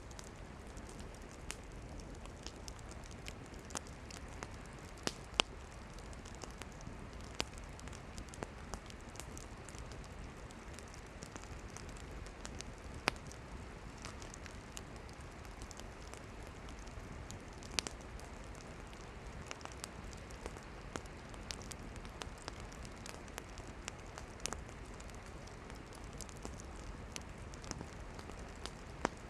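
Wood campfire burning: a steady soft hiss of flames with frequent small crackles and sharp pops of burning firewood, the loudest snaps about five, thirteen and eighteen seconds in.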